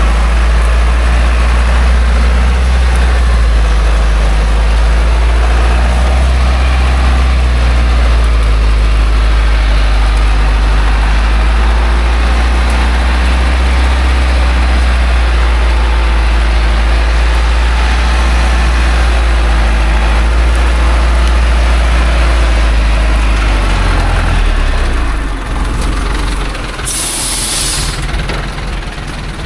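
The diesel engine of a loaded logging truck runs hard and steady under load on a muddy climb. Near the end it drops back toward idle, and a short, sharp hiss of air follows.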